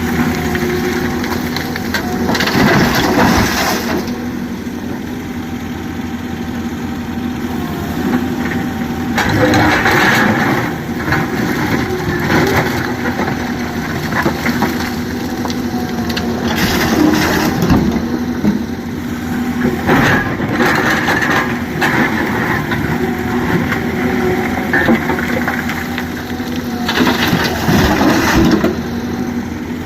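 Excavator loading a tipper truck with quarry rock: a diesel engine runs steadily while rock and soil crunch and clatter in several loud bursts of a second or two, every several seconds, as the bucket digs and dumps.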